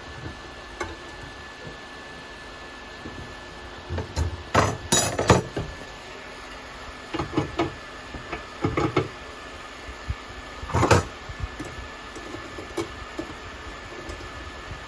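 Hand tools and plumbing fittings clinking and knocking as a washbasin faucet and drain trap are worked on, in three short bunches of sharp hits with quieter gaps between.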